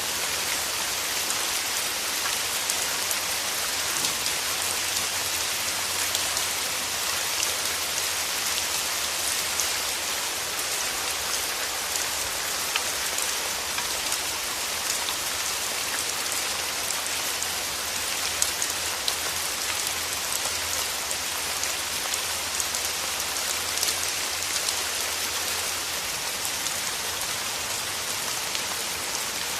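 Steady rain falling through trees: an even hiss dotted with many small drop ticks.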